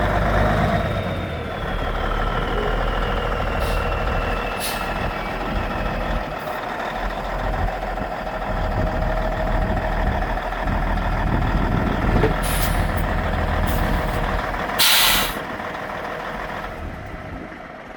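White semi truck tractor's diesel engine running, with a whine gliding down in pitch over the first few seconds and short air hisses from the air brake system. The loudest is a sharp half-second air release about 15 seconds in, after which the sound fades.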